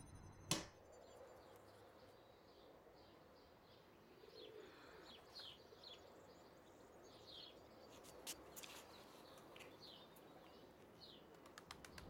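Faint chirping of small birds: many short high chirps at irregular intervals. A single sharp click comes about half a second in.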